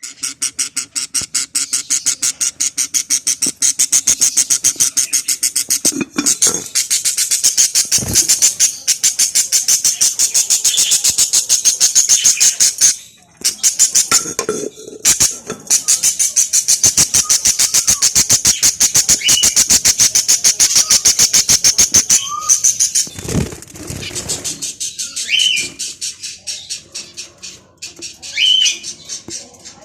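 Budgerigar chicks begging: a loud, fast, steady train of high, raspy calls, about ten a second, that breaks off for a moment about halfway and fades out in the last quarter. Short rising budgie chirps and a few low knocks come through toward the end.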